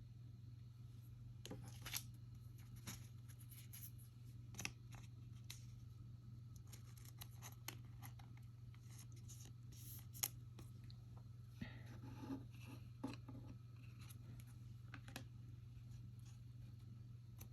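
Faint handling sounds of trading cards and packs: scattered small clicks, scrapes and crackles as cards are shuffled and set down, over a steady low hum.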